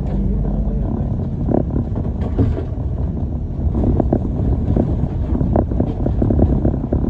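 Moving bus heard from inside the cabin: a steady low engine and road rumble, with scattered short knocks and rattles.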